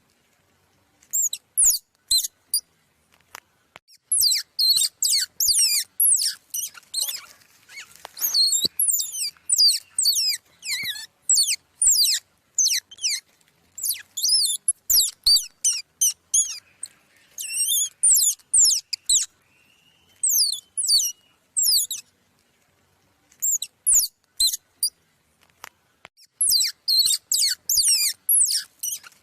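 Small songbirds chirping and twittering rapidly, with many short, high-pitched, downward-sweeping notes in clusters separated by brief pauses, and a few faint clicks among them.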